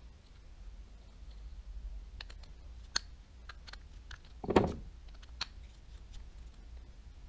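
Light clicks and taps of small baitcasting reel parts and tools being handled, with one louder knock a little past halfway.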